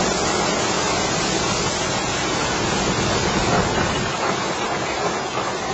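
Steady rumble and rattle of an open-sided safari ride truck jolting along a rough track, with wind noise on the microphone.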